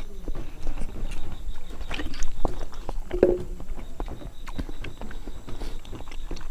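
A person chewing hard-boiled egg close to the microphone: irregular wet clicks and smacks of the mouth, with a short low vocal sound about three seconds in.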